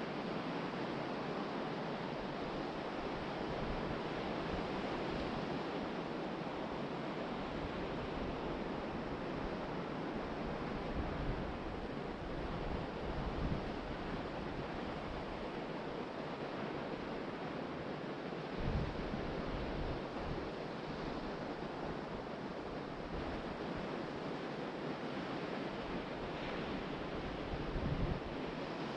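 Ocean surf breaking steadily on a sandy beach in strong wind. Wind gusts buffet the microphone briefly a few times, about 13, 19 and 28 seconds in.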